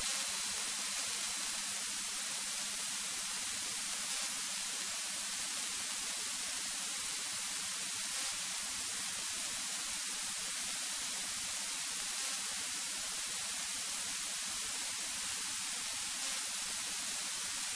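Steady electronic hiss, like static on a cockpit audio feed, with no engine note coming through.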